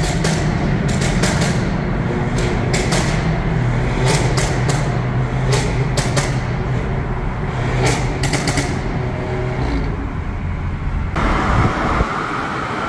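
Car engine running under load while driving, a steady low drone with many short sharp cracks over it. About eleven seconds in it gives way abruptly to an even road and traffic hiss.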